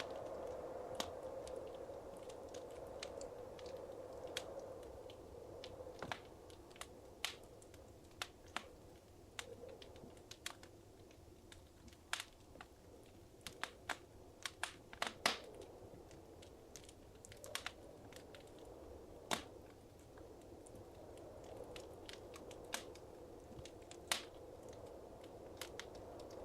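Wood fire crackling in a fireplace: sharp, irregular pops and snaps over a soft steady hiss of burning, the pops thickest in the middle.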